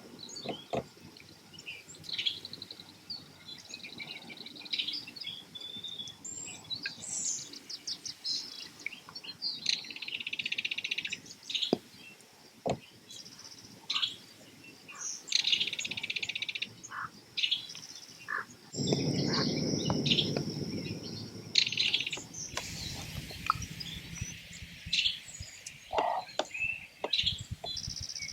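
Birds calling repeatedly, with several dry rattles about a second long typical of a belted kingfisher's chatter. A low rushing noise rises for a few seconds past the middle.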